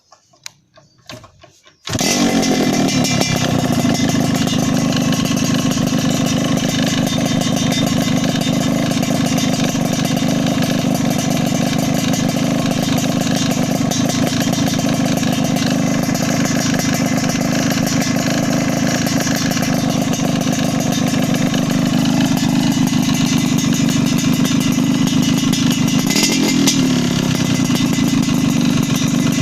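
Yamaha RX-King's two-stroke single-cylinder engine starting up about two seconds in and then running steadily and loudly through an Armoni racing exhaust, its pitch dipping and rising briefly near the end.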